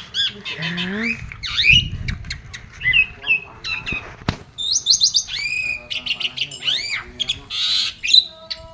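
Asian pied starling singing a rapid, varied song: whistled notes that rise and fall, mixed with harsh squawks and sharp clicking chatter.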